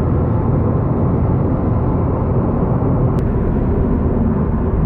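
Steady low rumble of a 2017 Subaru WRX STI's turbocharged 2.5-litre boxer four running at low speed, with one short click about three seconds in.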